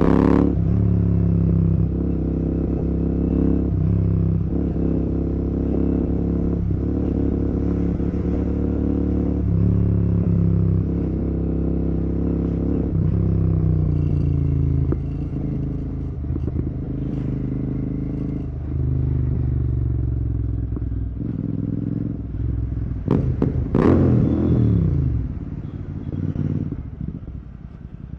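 Royal Enfield Continental GT 650's parallel-twin engine running through an aftermarket Red Rooster exhaust while riding, its note rising and falling through gear changes. Near the end the revs jump sharply and then fall away.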